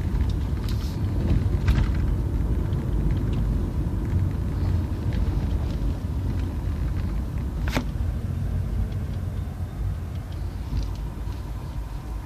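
Low, steady rumble of a car running, with a single sharp click about eight seconds in. The rumble drops away at the very end.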